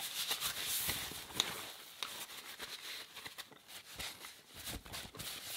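Close-miked eating sounds: chewing, with many small mouth clicks and smacks.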